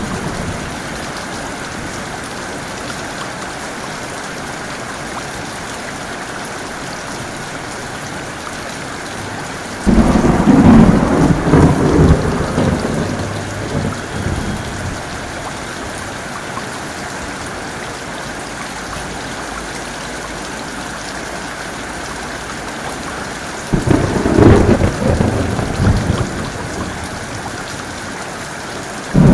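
Heavy rain falling steadily, with two loud claps of thunder, about ten seconds in and near the end, each breaking suddenly and rumbling away over a few seconds, and another just starting at the very end.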